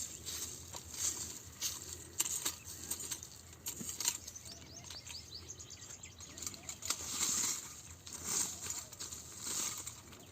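Outdoor rural ambience: scattered clicks and rustling, a quick run of bird chirps about four to five seconds in, and several short bursts of hiss near the end.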